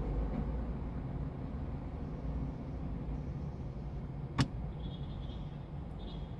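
A car's engine idling, a steady low rumble heard from inside the cabin, with a single sharp click about four seconds in.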